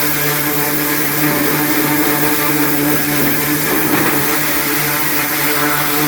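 Ryobi 1900 PSI electric pressure washer running, its motor and pump humming at a steady pitch under a loud hiss of water spray as it blasts grease off a grill's drip pan.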